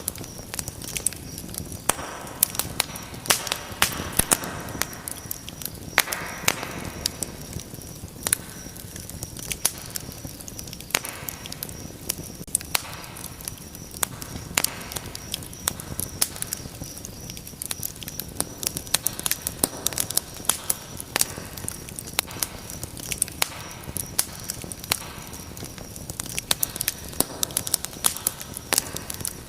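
Wood fire crackling, with frequent sharp, irregular pops over a steady low rush of burning flames.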